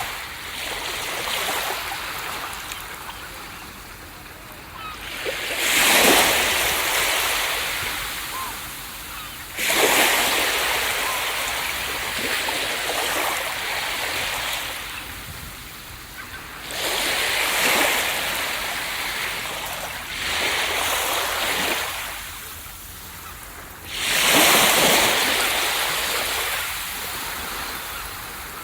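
Ocean waves breaking on a beach, about six in turn a few seconds apart, each one rising sharply and then fading as the water washes back.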